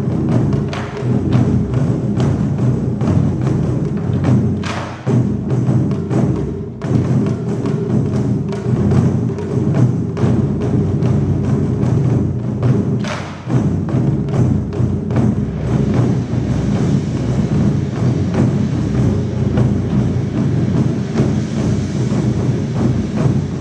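Taiko drum ensemble playing a fast, dense rhythm of strikes, with a few brief breaks in the first half.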